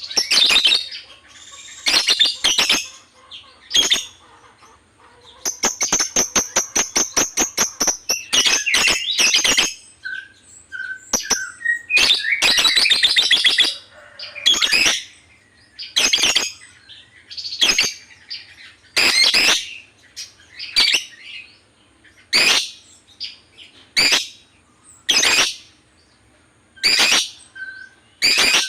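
Lovebird chirping: sharp, high-pitched calls repeated about every second, broken twice by rapid chattering runs of quick notes lasting a few seconds each.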